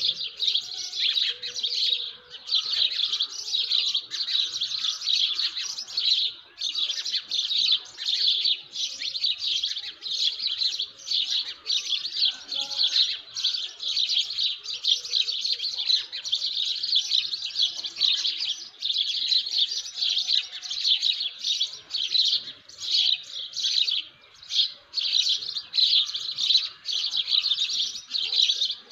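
Many birds chirping together in a dense, continuous chorus of rapid, high notes.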